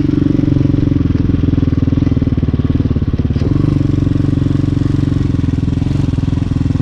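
Hawk 250 dirt bike's single-cylinder engine running while riding. It eases off briefly about a second in and picks back up after about three and a half seconds.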